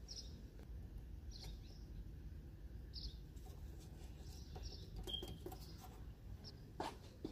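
A small bird chirping, short high calls repeating about every second and a half over a low steady background rumble, with a few light clicks about five seconds in and one near the end.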